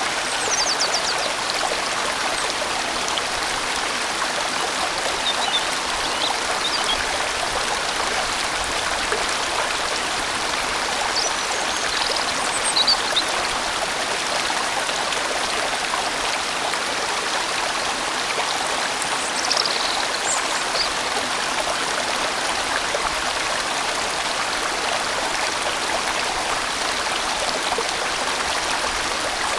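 A large valley stream flowing steadily, a full, even rush of water with no breaks.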